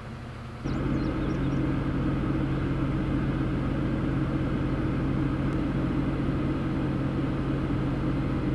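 Steady drone of a motor vehicle running, cutting in abruptly about half a second in and holding even, with a deep hum under the road noise. A few faint high chirps sound just after it starts.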